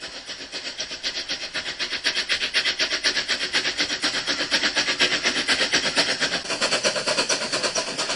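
Steam locomotive chugging: a fast, even rhythm of steam puffs, several a second, holding steady.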